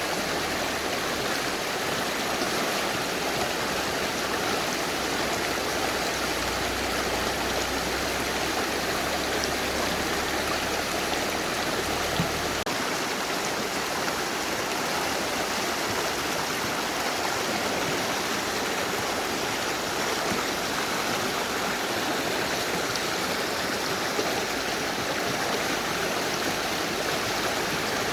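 Mountain river rushing steadily over rocks, an even wash of water noise.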